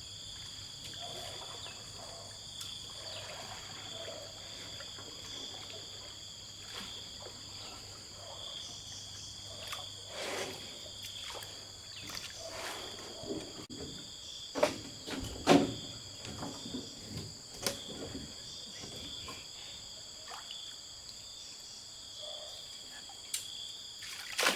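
Steady chorus of crickets or similar insects, a high continuous trill. A few short knocks or splashes sound in the second half, the loudest about two-thirds of the way in.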